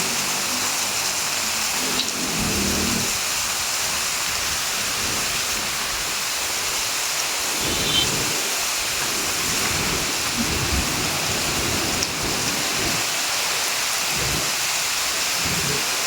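Heavy rain falling, a steady dense hiss, with low rumbling that comes and goes underneath.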